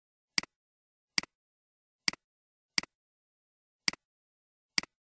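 Computer mouse button clicked six times at uneven intervals, each click a sharp press followed at once by a fainter release.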